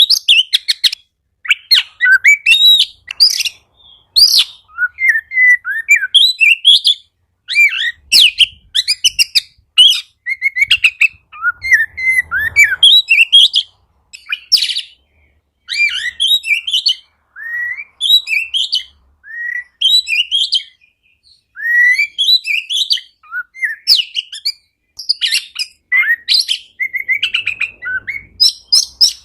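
Oriental magpie-robin (kacer) singing in full voice: quick, varied whistles and chirps in short phrases, with brief pauses between them.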